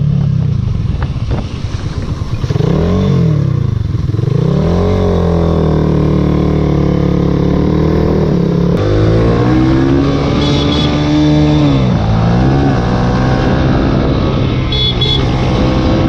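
Small single-cylinder sport motorcycle engine running hard, its pitch falling and climbing again and again as the throttle and gears change, with a sharp drop and recovery about twelve seconds in.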